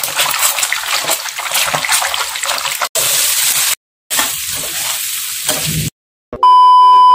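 Slices of egg tofu deep-frying in hot oil, a dense crackling sizzle, then after a brief break green beans sizzling in a frying pan. Near the end a loud, steady electronic beep tone cuts in.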